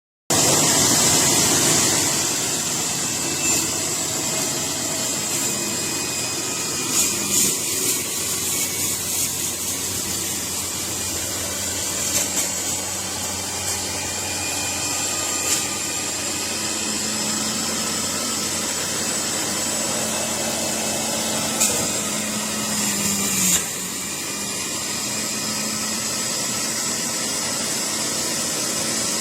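Electric juicer's 400 W motor running steadily, with a few sharp knocks along the way. It starts abruptly at full speed, and its hum drops slightly in level and pitch about 23 seconds in.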